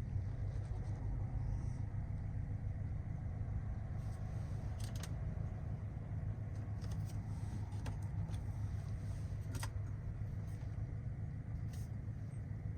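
Skoda Kodiaq RS's 2.0 TSI turbocharged four-cylinder engine and exhaust running at steady, unchanging revs: a low drone, with a few faint clicks here and there.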